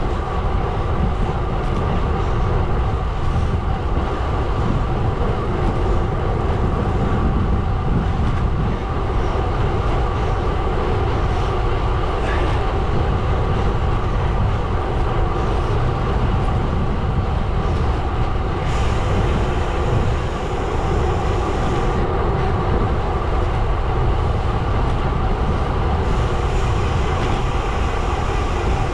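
Gravel bike tyres rolling over a gravel road: a loud, steady rumble with a constant hum running through it.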